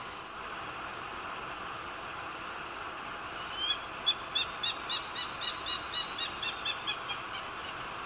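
A bird calling: a slurred opening note, then a run of about a dozen evenly spaced notes, about four a second, fading toward the end. The call starts a little under halfway through.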